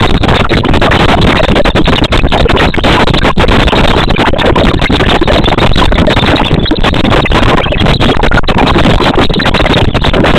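Loud, steady rushing noise with no rhythm or pitch.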